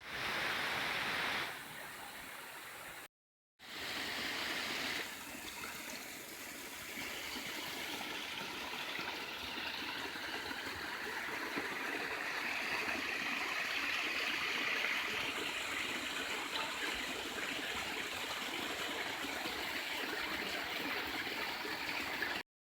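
Steady rushing noise, even and without any pitch, that drops out briefly about three seconds in and then runs on, slowly growing a little louder.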